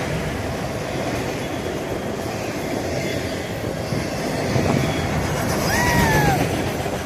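BNSF train passing, its wheels on the rails making a steady rumble. A short high-pitched tone rises and falls about six seconds in.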